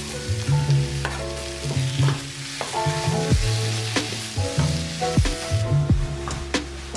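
Background music with a bass line and short plucked or struck notes and light percussion, over a steady high hiss of sizzling or rain that thins out about five and a half seconds in.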